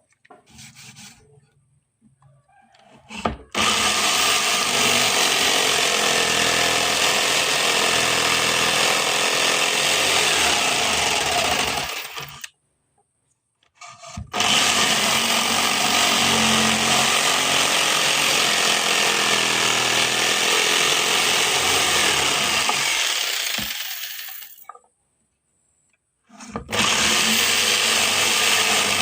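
A power tool working wood, running loud and steady in three long stretches and cutting off abruptly into silence twice. A few small knocks come before it starts, about three seconds in.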